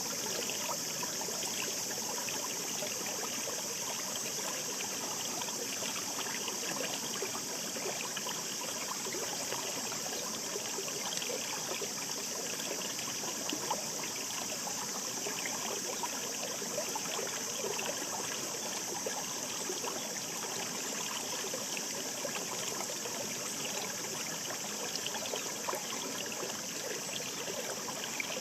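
Mountain brook murmuring steadily: a continuous rush of running water flecked with many small splashes and trickles.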